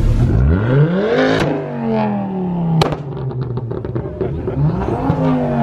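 Car engine revved hard, rising steeply and falling back, then revved again near the end. A sharp crack from the exhaust comes as the revs drop, followed by a string of small crackles.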